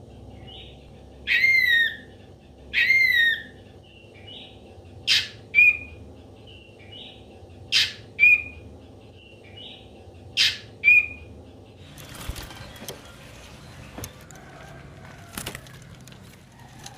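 Ashy drongo calling: two loud, harsh calls that fall in pitch, then three pairs of sharp notes, each a quick chip followed by a short whistle, with soft short notes between them. The last few seconds hold only faint crackling.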